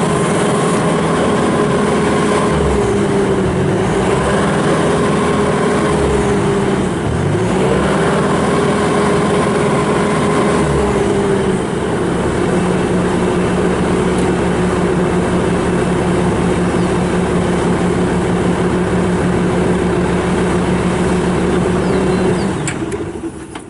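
Bobcat S740 skid steer loader's 74 hp turbocharged diesel engine running. Its pitch wavers and dips over the first dozen seconds, then holds steady, and the sound falls away shortly before the end.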